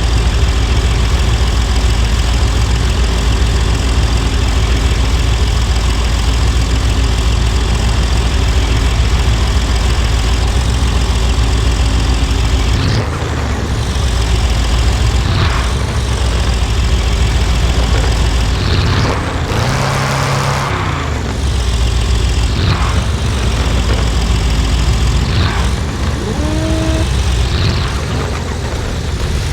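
Car engine idling steadily, then revved in a series of short blips with rising and falling pitch through the second half.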